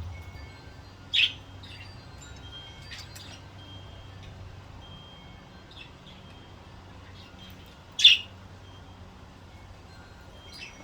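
Pet budgerigars giving short, sharp chirps, two louder ones about a second in and near eight seconds, with faint soft whistled warbling between.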